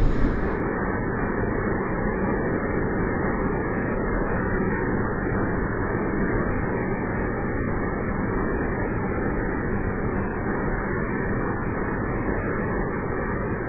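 Electric commuter train passing at speed, a steady, muffled running noise with no change in level.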